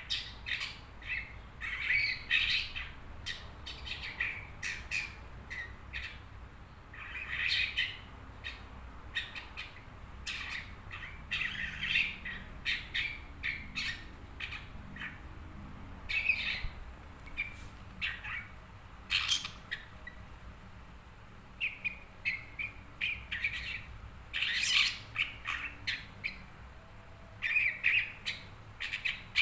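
Long-tailed shrike (cendet) calling: a long irregular run of short, harsh chirps and squawks.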